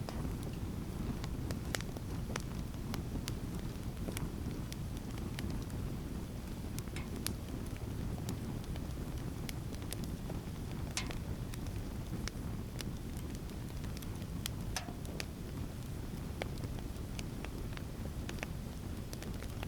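Wood campfire burning and crackling, with sharp pops and snaps scattered irregularly over a steady low rush.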